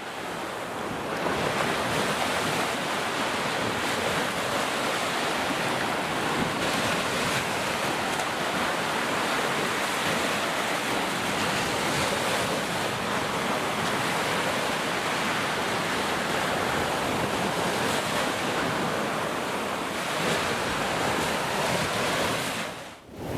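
Ocean surf: a steady wash of waves with some wind, fading in at the start and dropping away just before the end.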